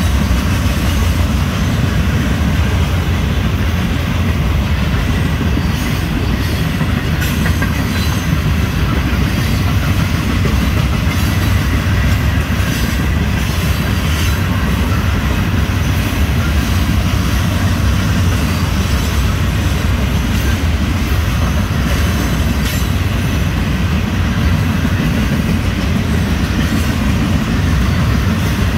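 Florida East Coast Railway freight train of hopper cars rolling past: a steady, loud rumble of steel wheels on rail, with scattered clicks of wheels over the track.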